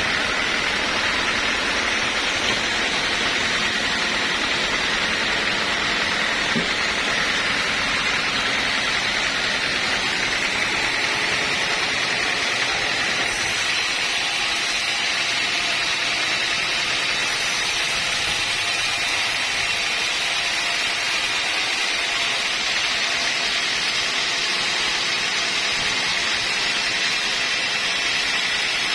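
Sawmill machinery running steadily: a constant loud hiss with a steady high whine.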